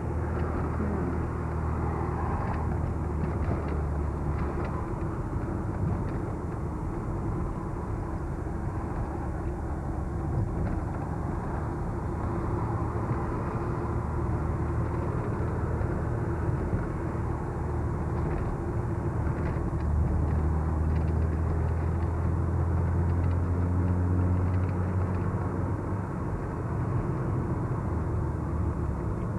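A car driving along the road heard from inside the cabin: a steady engine drone with tyre and road noise, the engine note growing stronger about two-thirds of the way through.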